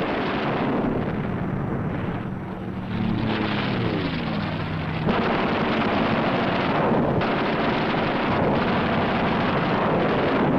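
Combat sound of piston-engined fighter aircraft: a dense engine roar with battle noise. A few seconds in, an engine note falls in pitch as a plane passes, and the sound jumps abruptly about five seconds in.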